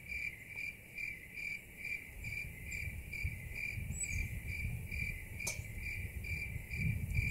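Regular high-pitched chirping, about two chirps a second, like a cricket, over a low wind rumble.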